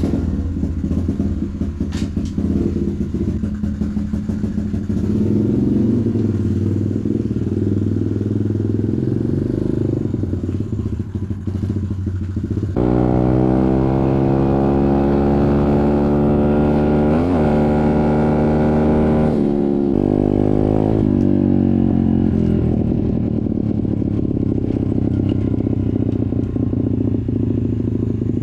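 Off-road motorcycle engine running steadily, then jumping to a higher engine note about thirteen seconds in. It gives a few quick revs up and down before easing back to a lower note.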